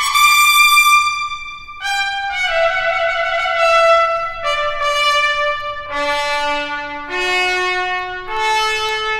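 Solo trumpet playing a slow line of long held notes: a high note that breaks off just before two seconds in, then notes stepping downward to a low one about six seconds in, and climbing back up through higher notes near the end.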